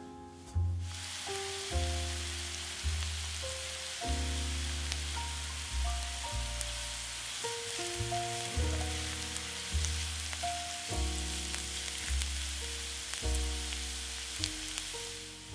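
Diced onion and garlic sizzling in oil in a nonstick frying pan, the sizzle starting about a second in. Background music with bass notes plays throughout.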